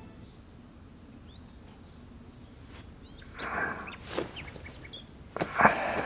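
Birds chirping faintly in the background, with a few short, louder noisy bursts about three and a half, four and five and a half seconds in.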